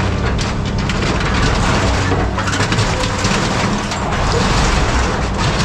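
Scrap metal crunching and crackling as it is crushed and worked by a tracked scrap-handling machine, over the machine's steady engine hum.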